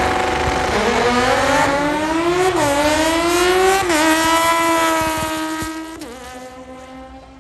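Car engine accelerating hard through the gears on a drag-strip run, its note climbing and falling back at gear changes about two and a half and four seconds in, then fading as the car pulls away down the track.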